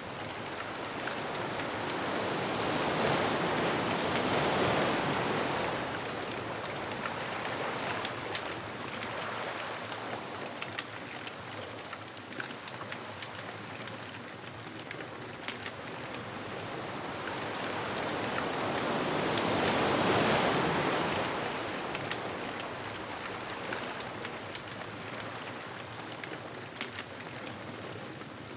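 Ocean waves washing up on a beach, two waves swelling and falling away, about four seconds in and again near twenty seconds, over the small crackles and pops of a wood bonfire.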